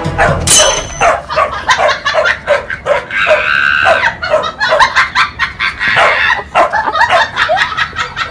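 A dog barking over and over in quick, short barks.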